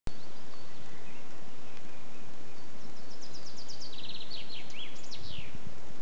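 A songbird sings one phrase about halfway through: a run of quick high notes stepping downward, ending in a few sweeping notes. Under it is a steady outdoor hiss, with a few faint high calls earlier.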